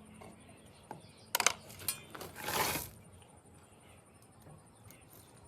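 A quick run of sharp metallic clinks, then a short scraping rush lasting about half a second.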